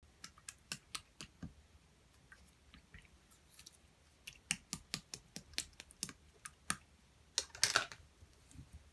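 Clear slime being pressed and poked by hand, giving a series of sharp wet clicks and pops, with a quick flurry of pops about three-quarters of the way in.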